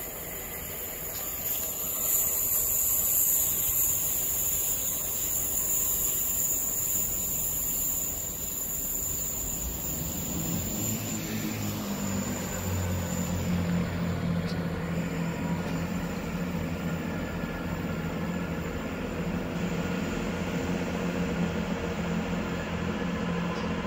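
A GWR Hitachi intercity express train running past with a high hiss and rushing noise, loudest a couple of seconds in. About halfway through, a Networker Turbo diesel multiple unit's underfloor engines take over with a steady low drone as it pulls into the platform.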